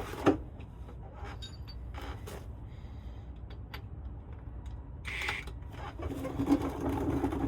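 Scattered clicks and light knocks of metal parts being handled while a driveshaft's U-joint is fitted into its yoke. A sharp click comes just after the start, and a low, muffled rumbling handling noise follows near the end.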